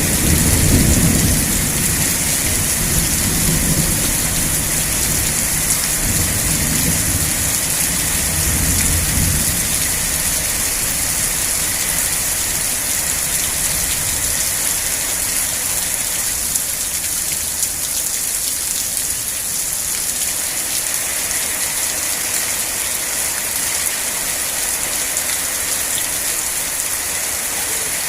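Steady heavy rain hissing down, with a roll of thunder rumbling low and dying away over the first ten seconds or so.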